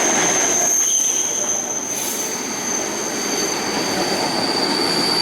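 ED4M DC electric multiple unit running past with a steady rolling noise and a high, steady wheel squeal. The squeal drops to a lower pitch about two seconds in.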